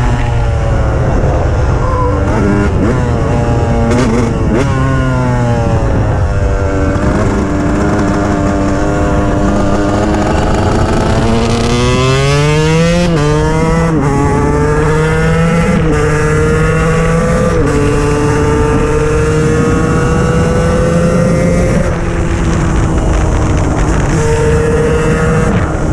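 KTM 125 EXC's single-cylinder two-stroke engine under way, its pitch climbing and dropping back again and again through the gears. About halfway through it revs up and holds a high, fairly steady note for several seconds.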